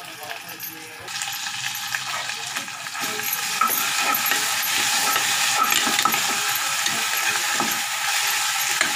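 Ginger-garlic paste and sautéed onions sizzling in hot oil in a pressure cooker, stirred with a metal spoon that scrapes the pot. The sizzle comes up about a second in and grows louder about three seconds in.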